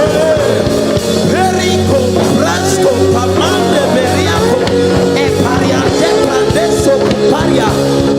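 Live church worship band music: held keyboard chords and drums, with a voice singing wavering, bending runs over them.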